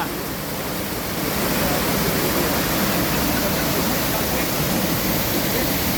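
Waterfall pouring, a steady rushing of water with no letup.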